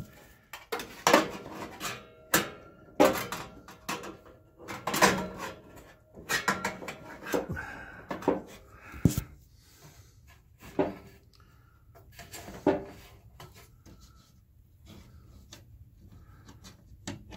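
Scattered metal clicks and knocks as an oven door hinge and its screws are handled and fitted by hand, some with a short ring. They thin out to faint ticks for the last few seconds.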